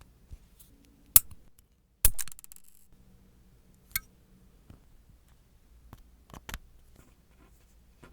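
A series of sharp clicks and taps from small nail-art tools or objects being handled and set down, about six in all, the loudest about two seconds in with a short ringing after it.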